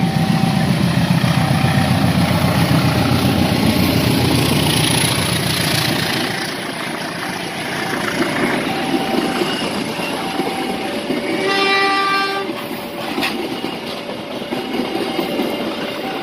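A KAI diesel locomotive passes with a heavy engine rumble that eases after about six seconds, as its passenger coaches roll by with rail noise. A two-tone level-crossing alarm alternates steadily throughout, and about twelve seconds in a horn sounds once for about a second.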